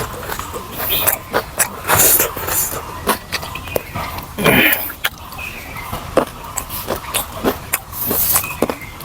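Close-miked chewing and lip-smacking while eating pork ribs with rice: irregular wet smacks and clicks, several a second, with a few louder slurping breaths.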